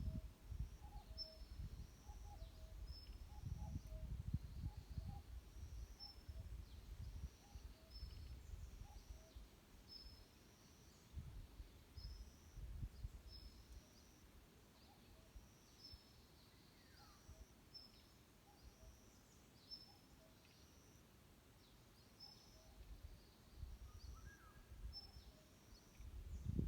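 Forest birdsong: a small bird repeats a short high call about once a second, while softer, lower notes from another bird come in small groups. Uneven low rumbling noise runs underneath, stronger in the first half and again near the end.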